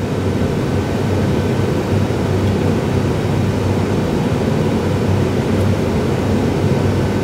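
Steady low hum and rush of background machinery running in a workshop, unchanging, with no tapping or handling sounds standing out.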